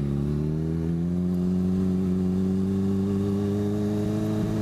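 Motorcycle engine running at steady revs, its pitch creeping slowly upward as the bike rolls under light throttle.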